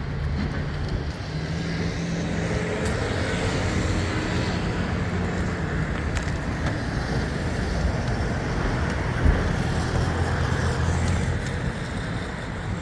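Road traffic: a motor vehicle's engine humming steadily close by over the noise of passing cars.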